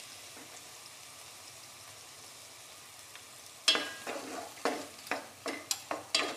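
Diced apple frying gently in ghee on a low flame, a faint steady sizzle. About three and a half seconds in, a spoon starts stirring the apple cubes, knocking and scraping against the pan about twice a second.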